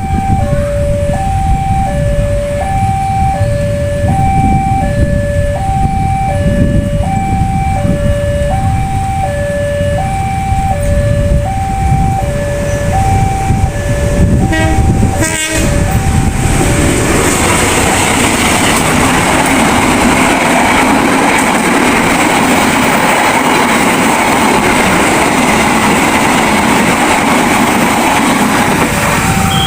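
Railroad crossing warning alarm sounding two alternating electronic tones, switching about every 0.7 s, over the low rumble of idling trucks. About halfway through it cuts off abruptly. A passing train's steady rolling noise then takes over.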